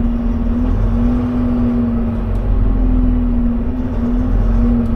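Semi-truck tractor driving at road speed without a trailer, heard from inside the cab: a steady engine and road drone with a steady hum that wavers slightly in pitch.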